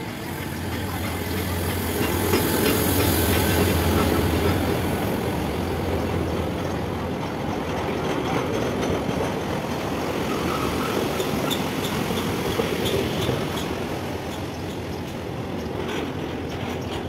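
Henschel diesel locomotive passing with a steady low engine drone, strongest in the first few seconds, then the rumble and clatter of loaded ballast wagons rolling past on the rails.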